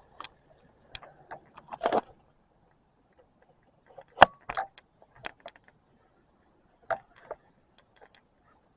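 Scattered short clicks and knocks at irregular intervals, the sharpest about four seconds in, with no steady motor sound.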